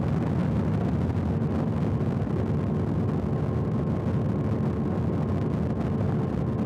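Motorcycle at highway cruising speed: a steady low engine drone mixed with wind and road rush. Faint steady tones join in about two and a half seconds in.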